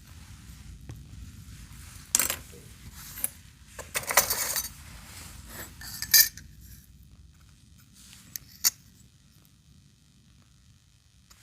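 Small metal tools and parts clinking and clattering, handled on a hard surface: a string of sharp clinks with a short rattling run about four seconds in and the loudest clink about six seconds in.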